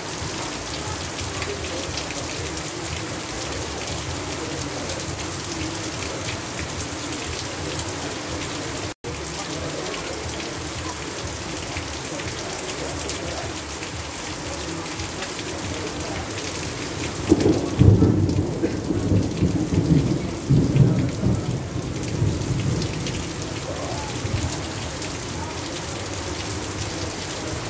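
Steady heavy rain. About seventeen seconds in, a roll of thunder rumbles for around five seconds, the loudest sound here. The audio cuts out for an instant about nine seconds in.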